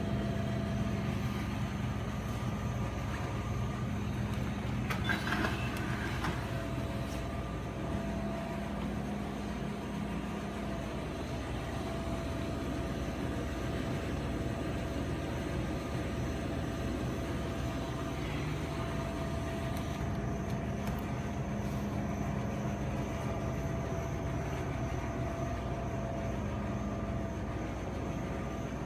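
Steady machine hum with a few steady tones, and a brief louder rush of noise about five seconds in.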